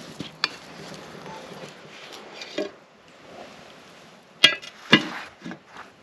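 A cooking utensil knocking and scraping in a cast iron skillet while eggs are stirred, with a few light clicks and then two sharp clanks about half a second apart near the end.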